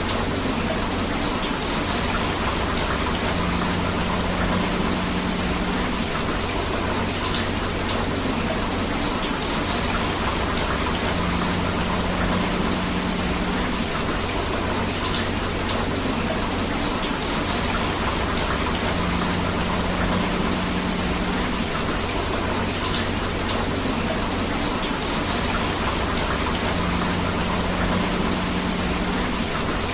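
Steady rain and flowing river water, a dense, even wash of noise. A faint pattern in it comes back about every eight seconds.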